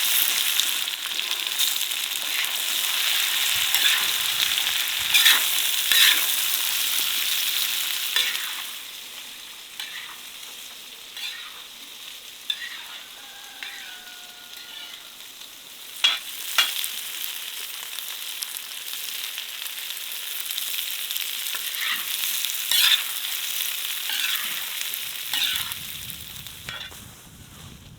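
Food frying in hot oil over a wood fire, sizzling loudly for the first eight seconds or so and then more quietly. A utensil clacks and scrapes against the pan now and then as the food is stirred.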